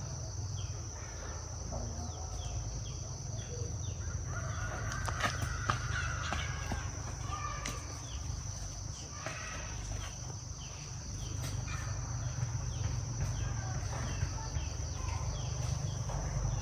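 Chickens clucking and calling over a steady high drone of crickets, with short chirps repeating throughout and a longer call a few seconds in.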